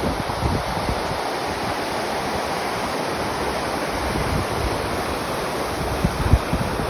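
Waterfall rushing, a steady dense roar of falling water, with wind buffeting the microphone in low gusts about six seconds in.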